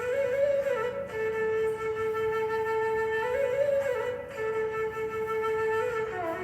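Solo flute music: long held notes on one pitch, broken twice by short ornamented turns, with the melody stepping lower near the end.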